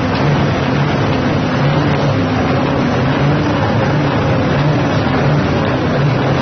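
Heavy truck diesel engine running steadily with a low, even rumble.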